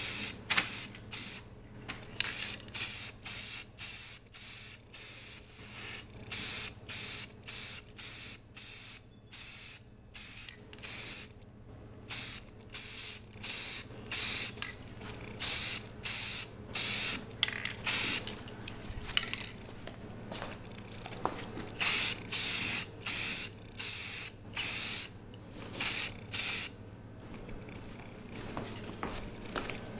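Rust-Oleum aerosol spray paint can hissing in a long series of short bursts, a little over one a second, as a coat of paint is sprayed on a plastic fender.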